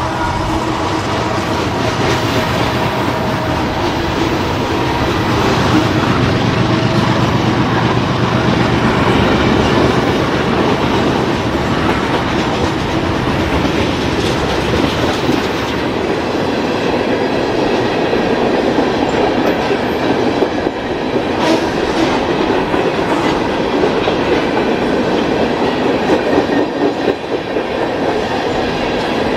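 A CSX mixed freight train's cars rolling past, with a steady rumble and rattle and the wheels clacking over rail joints.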